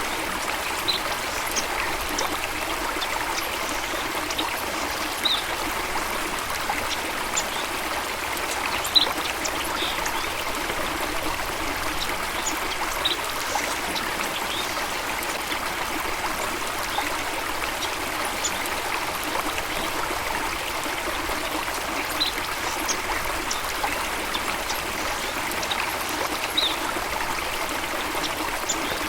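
Steady rush of running water, like a stream or small waterfall, holding an even level throughout. Brief high ticks are scattered through it, with a sharper one about nine seconds in.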